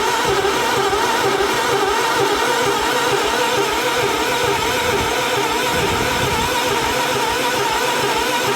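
Electric starter cranking the Gravely 430's cold engine, turning it over steadily without it catching, with a wavering whine over fast low pulses. The engine won't fire because the choke is not engaged: the choke cable is frozen.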